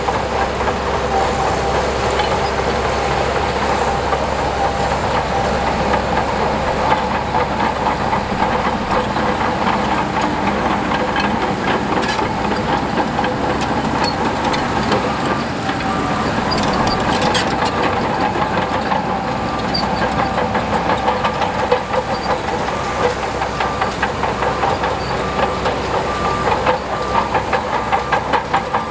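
Heavy earthmoving machinery, a bulldozer with an excavator and dump trucks, running steadily under diesel power, with a few steady whining tones and scattered metallic clanks.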